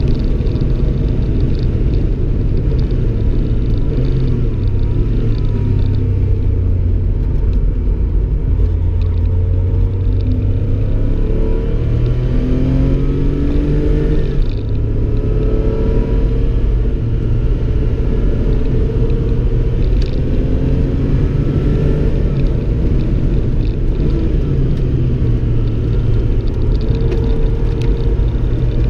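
Porsche 911 flat-six engine running hard around a track lap, heard from inside the car: its pitch climbs under acceleration and drops back at the upshifts, most clearly about halfway through, over a steady low rumble and road noise.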